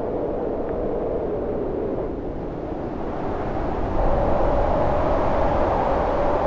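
Howling storm wind: a steady rush with a wavering, moaning pitch that jumps higher and louder about four seconds in.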